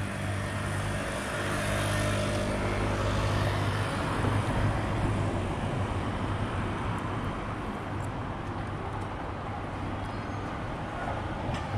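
Electric train passing: a steady low hum with overtones for the first few seconds, then a rush of rolling noise that is loudest about four to five seconds in and eases off.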